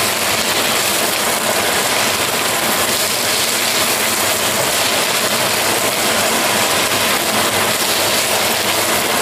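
Freshly added washed lentils with stewed onion, carrot and tomato sizzling steadily in a saucepan as they are stirred, being dry-fried before any water goes in.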